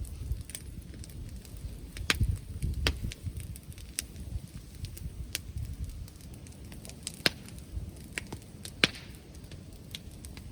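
Wood bonfire crackling, with irregular sharp pops, several of them loud, over a low rumble of wind on the microphone.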